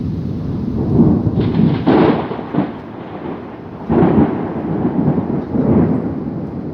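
Thunder rumbling in a rainstorm: a continuous low rumble that swells into louder rolls about four times.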